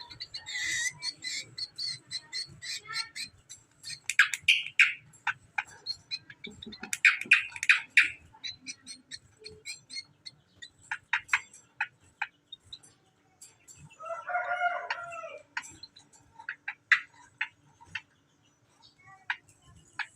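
Cucak kombo (greater green leafbird) singing: a rapid run of sharp chirps, clicks and trills with short pauses between phrases. About two-thirds of the way through comes one longer, lower, fuller call.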